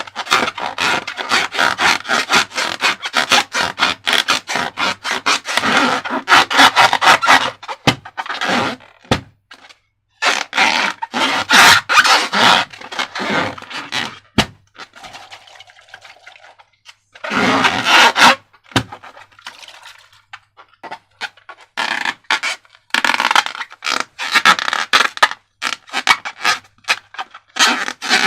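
Sticky slime being worked by hand, giving bouts of crackling, scraping and clicking with short pauses between them.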